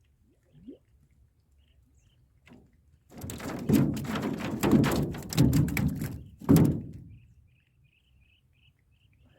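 A cluster of heavy knocks and thumps lasting about four seconds, the last one the loudest, as of things being handled against a wooden fishing boat. Faint repeated chirping follows near the end.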